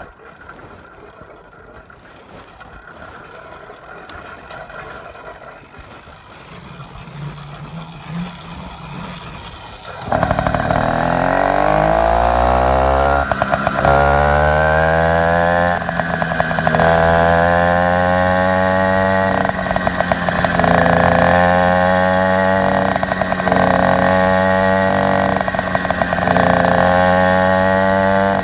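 Motorized bicycle's small engine with an upgraded exhaust. After about ten seconds of quieter rising noise, the engine catches suddenly and revs up. It then runs at a fairly steady pitch with brief dips every second or two.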